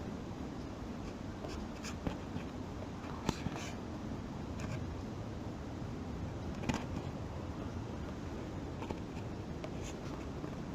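Footsteps through dry forest litter: irregular sharp crackles of leaves and twigs breaking underfoot over a steady low rustle.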